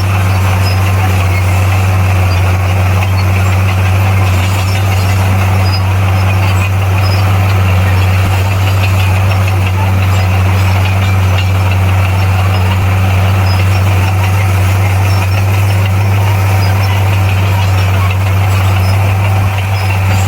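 Komatsu D58P bulldozer's diesel engine running steadily with a constant low drone, heard close and loud.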